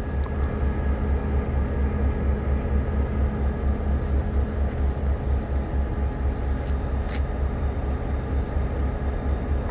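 Engine idling: a steady low rumble with an even pulse and a faint steady hum above it.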